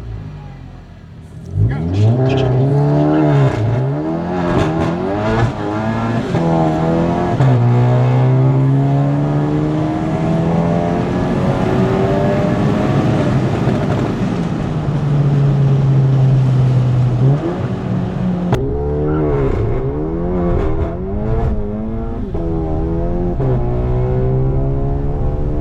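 Big-turbo VW Jetta GLI's turbocharged 2.0-litre four-cylinder engine launching and pulling hard through the gears on a drag-strip pass, its pitch climbing and dropping back at each shift. Later it runs at a steadier held pitch, with a few more rising pulls.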